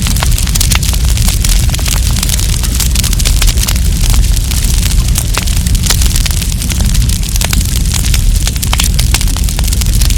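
Wood campfire crackling, with many quick sharp pops and snaps over a steady low rumble of the burning fire.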